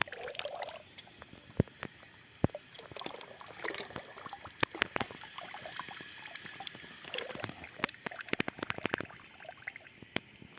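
Sugar-beet molasses being poured slowly, a faint trickle with scattered clicks and knocks from the container and its handling, and a quick run of clicks about eight to nine seconds in.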